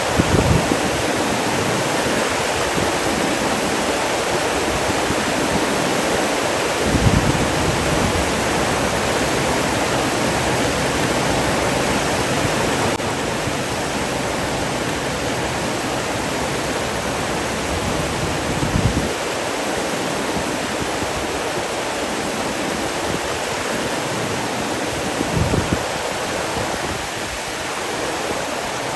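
Steady rush of flowing water, an even, unbroken noise. A few short, deeper swells rise out of it now and then.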